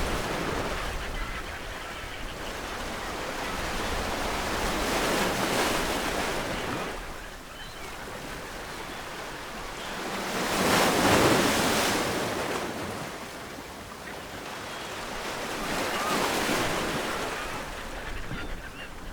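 Ocean waves breaking on a coast, each one surging up and washing back, about every five to six seconds; the biggest breaks about eleven seconds in.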